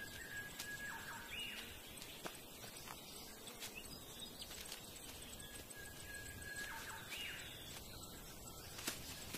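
Faint outdoor ambience with a bird calling twice, each call a held whistled note that jumps higher and then drops to a lower note. A few soft knocks come near the end.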